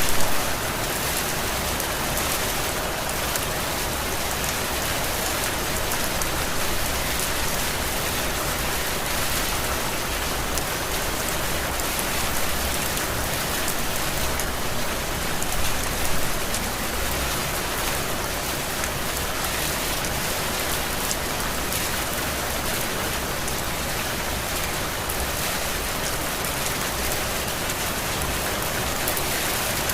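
Heavy rain falling steadily, a dense even hiss of drops, swelling briefly louder near the start and again about halfway through.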